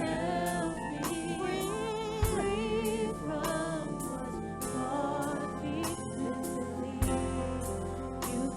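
Worship band playing a gospel song with vocalists singing, drum hits landing about every two seconds and a held bass underneath.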